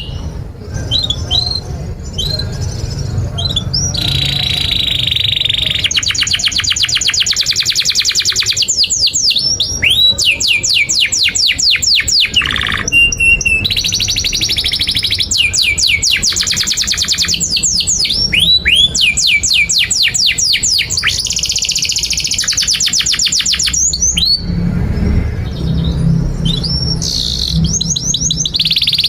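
Domestic canary singing a long unbroken song: fast trills and rolls of rapidly repeated notes, alternating with sweeping whistled notes.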